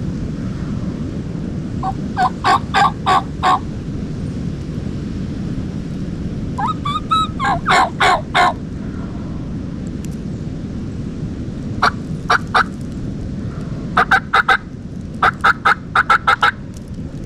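Turkey calling: runs of three to seven short yelping notes, repeated several times, with a longer warbling, gobble-like run about seven seconds in. A steady low wind rumble sits underneath.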